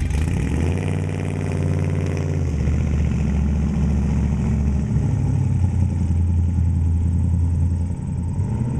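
1969 Chevrolet Camaro's 350 small-block V8 running steadily with a low exhaust note, the note shifting slightly about two and a half seconds in.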